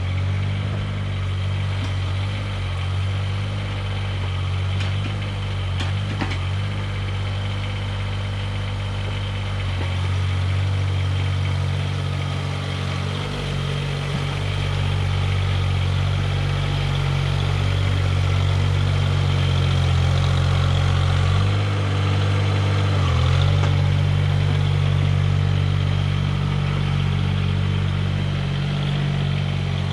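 Mahindra eMax 20S compact diesel tractor engine running steadily, with brief changes in engine note about ten seconds in and again about twenty-two seconds in.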